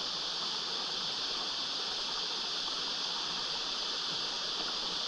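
Steady high-pitched drone of cicadas in chorus, over the rush of a flowing creek.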